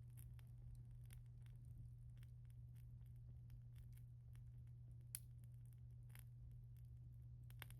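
Faint fire crackling: scattered small pops and snaps, with a sharper snap about five seconds in, over a low steady hum.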